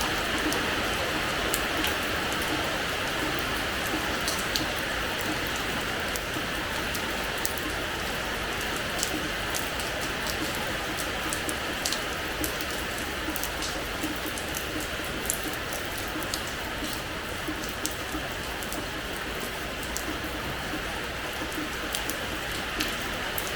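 Steady rain falling on a hard terrace floor, a constant hiss with many sharp, scattered drip and splash ticks of individual drops.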